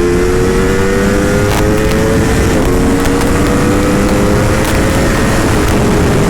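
Aprilia RSV4 RF's V4 engine pulling hard in second gear at high speed, its pitch climbing steadily and easing slightly near the end. Heavy wind rush on the helmet microphone.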